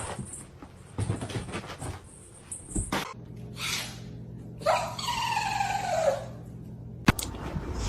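A cat giving one long meow of about a second and a half, falling in pitch, a little after the middle, over a low steady hum. A few short knocks and clicks come before and after it.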